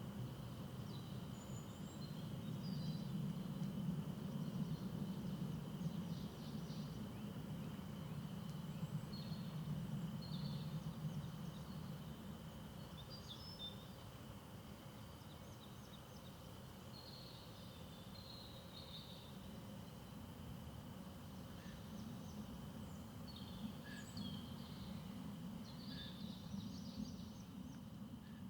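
Small birds chirping and twittering in short bursts throughout, over a steady thin high tone and a low rumble that swells for several seconds, fades, then rises again near the end.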